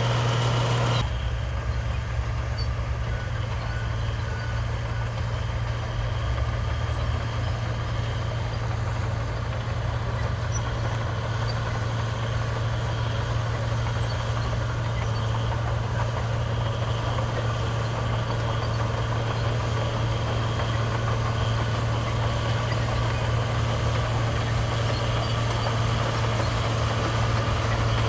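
Heavy diesel engine of earthmoving machinery running steadily at a constant low pitch. The sound changes abruptly about a second in.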